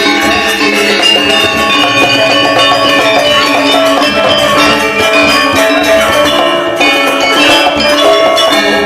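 Balinese gamelan ensemble playing a tabuh kreasi piece: many bronze metallophones ringing together in fast, dense strokes, loud and continuous.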